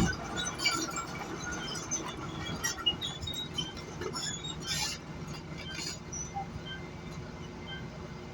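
Bulldozer working: its engine running with a steady low hum under a stream of small metallic clinks and squeaks from the tracks, with a sharp knock right at the start and two brief noisy bursts about five and six seconds in.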